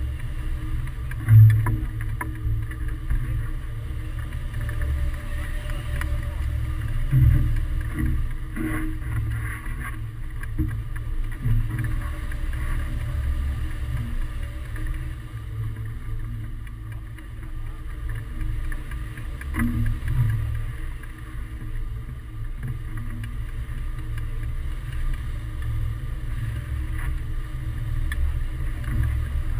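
Wind rushing over the microphone during a hang-glider flight: a continuous, fluctuating low rumble with a few louder thumps, the sharpest about a second and a half in.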